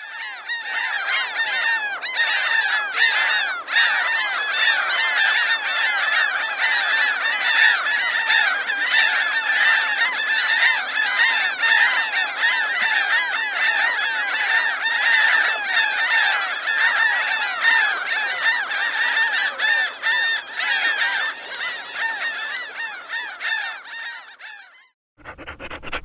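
A flock of birds calling over one another: a dense, unbroken chorus of many short calls that stops abruptly near the end, followed by a brief different sound.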